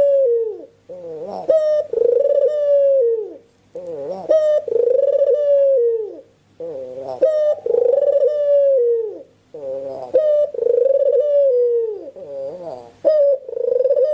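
Puter (Barbary dove) cooing steadily: a series of low coos, each phrase a short rising note followed by a longer drawn-out coo, repeated about every three seconds, the full, frequent calling that bird keepers call gacor.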